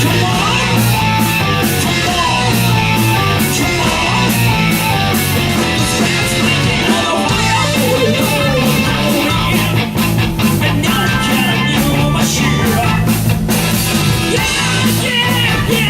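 Live hard rock band playing an instrumental passage: distorted electric guitar over bass and drum kit.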